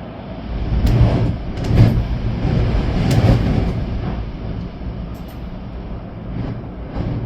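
Storm wind and rain: a strong gust builds about a second in and eases off after about four seconds, with a few sharp knocks.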